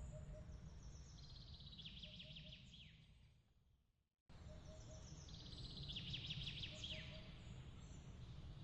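Faint songbird song, a fast trill ending in quick downward slurs, over a low steady rumble. The sound fades out to a moment of silence about four seconds in, then cuts back in and the same song repeats: a looped ambience track restarting.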